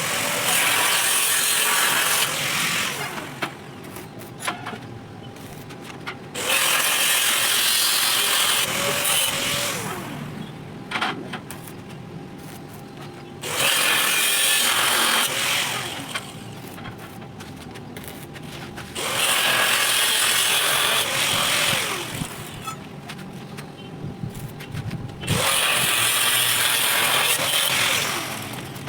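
Electric arc welding: five separate welds of about three seconds each, each a loud crackling hiss that starts suddenly as the arc is struck, with short pauses between them, typical of tack-welding the joints of a steel diamond-pattern grille.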